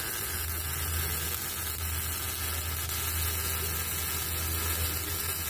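MIG welding arc running steadily with a continuous crackling sizzle, over a steady low hum.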